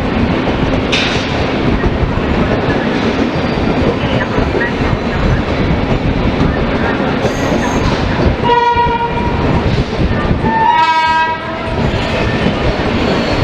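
Express train running with a steady rumble and wheel noise on the rails, and a horn sounding twice about two-thirds of the way through: a short blast, then a slightly longer one that rises in pitch as it starts.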